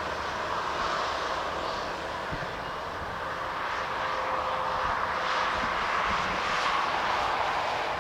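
Airbus A220-100 airliner coming in to land, its Pratt & Whitney PW1500G geared turbofans making a steady jet rush that swells slightly midway, with wind buffeting the microphone.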